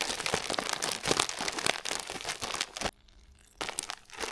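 Plastic packaging crinkling and rustling as it is handled, with a brief pause about three seconds in before it starts again.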